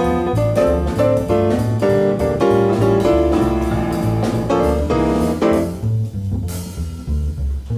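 Jazz trio playing a ballad-tempo standard: a melodic line over double bass and drums. About six seconds in the melody drops away, leaving the double bass and a cymbal wash.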